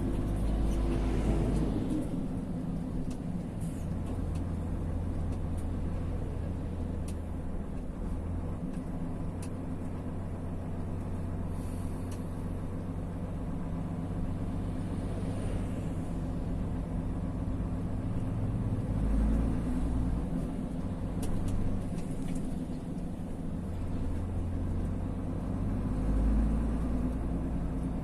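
Road vehicle driving along, its engine a steady low hum that swells a few times, over road noise.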